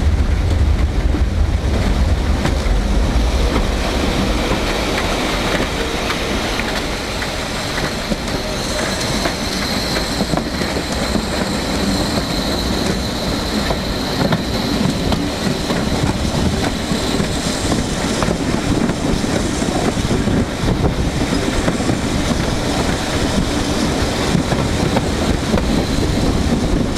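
Railway carriage wheels running on the track, heard from an open carriage window, with wind buffeting the microphone in the first few seconds. A steady high wheel squeal runs from about eight to sixteen seconds in as the train rounds a curve.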